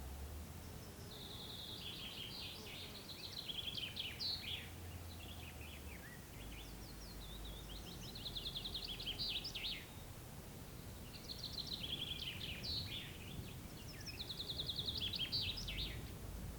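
A songbird singing four similar trilled phrases, each about two to three seconds long and dropping in pitch toward the end, over a faint low rumble.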